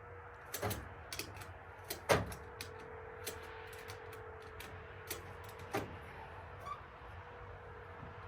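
Irregular sharp clicks and knocks of metal hardware being worked as something is tightened by hand, the loudest knock about two seconds in. A faint steady hum runs underneath.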